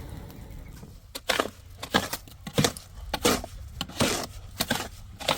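A run of short noisy strokes, about one every two-thirds of a second, starting about a second in.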